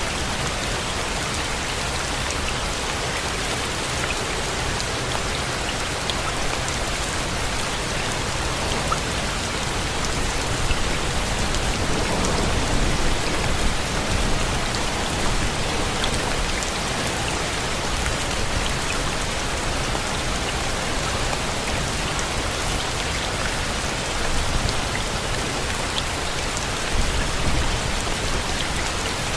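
Steady rain falling, with scattered individual drops ticking through the hiss; it swells slightly louder about a third of the way in and again near the end.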